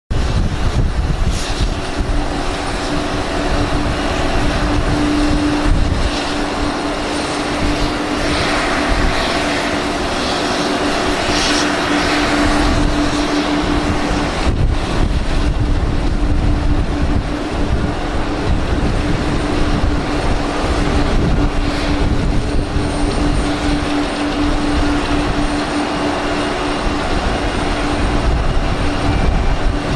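Airliner noise on the apron from a Boeing 767-300ER during pushback: a steady hum with a constant tone over a rumbling low noise, with a hissing swell that rises and fades about a third of the way in.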